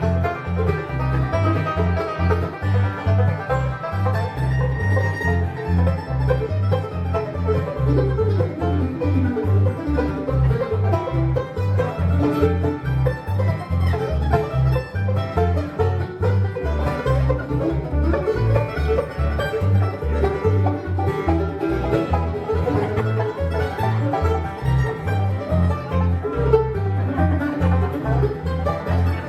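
Live bluegrass band playing an instrumental rag, with a banjo carrying the melody over picked guitar and a steady, even bass line.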